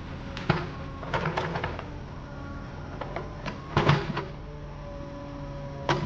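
Heavy machinery engine running steadily, with a series of sharp metallic clanks and knocks; the loudest comes about four seconds in.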